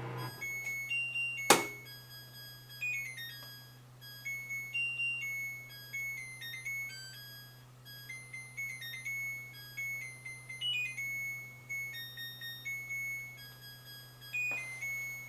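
Samsung washing machine's end-of-cycle tune: a melody of electronic beeps that signals the wash has finished, over a steady low hum. A single sharp click comes about one and a half seconds in.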